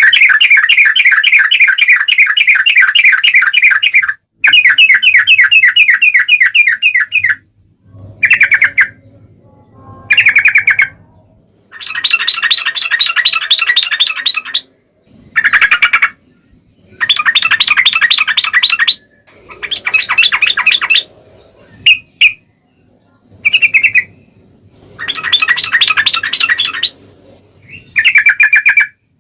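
Yellow-vented bulbul (trucukan) calling loudly in about a dozen chattering bouts of rapidly repeated notes, some lasting several seconds and others short, with brief pauses between them.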